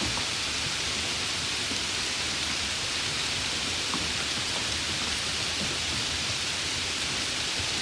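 Steady rain falling: a dense, even hiss with faint scattered ticks of single drops.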